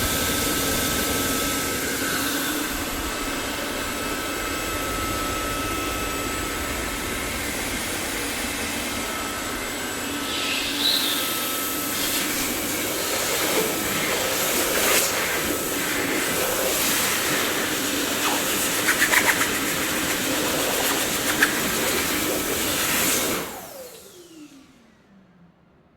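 Dyson vacuum cleaner running with a steady airy hiss and a few brief rattles. About 23 seconds in it cuts out, the motor's whine falling in pitch as it spins down to near silence.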